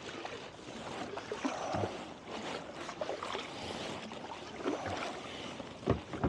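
Kayak paddles dipping and pulling through the water, a splash swelling about every one and a half seconds, with the water lapping at the hull of a two-person kayak. A sharp knock near the end stands out above the rest.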